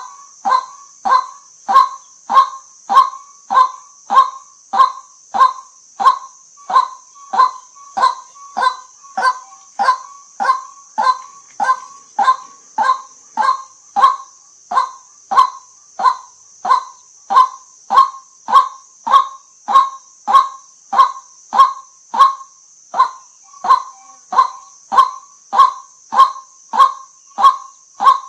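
White-breasted waterhen calling in a fast, even series of short, honking notes, about one and a half to two a second, without a break, over a steady high hiss. This is the call used to lure the bird to a decoy.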